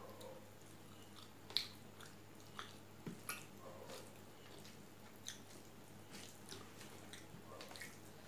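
Close-up mouth sounds of a person chewing rice and fish curry eaten by hand: soft wet chewing and lip smacks with scattered small clicks, the sharpest about one and a half seconds in.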